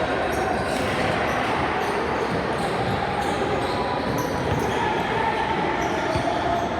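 Basketball game sound in a gym: a ball dribbling on the court amid the echoing hall noise of players and spectators.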